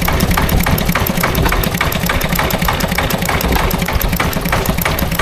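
Antique tractor engine idling steadily, with an even beat of firing strokes several times a second.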